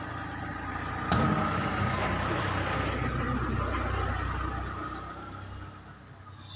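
Heavy vehicle engine running, jumping sharply louder about a second in as it revs, then easing back and fading away near the end.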